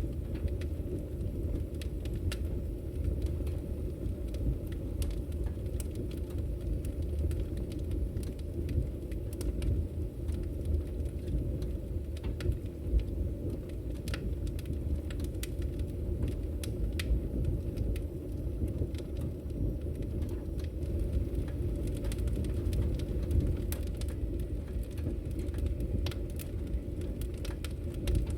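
Wood fire crackling in a fireplace: a steady low rumble of burning, with sharp pops and crackles scattered irregularly throughout.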